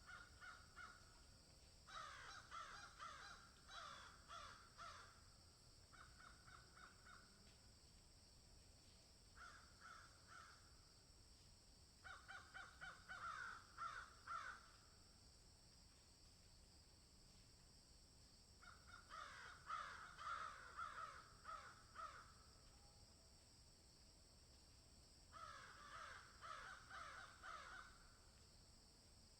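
Faint bird calls: bouts of rapid, harsh notes lasting one to three seconds, repeating about seven times with pauses between, over a steady high-pitched hiss.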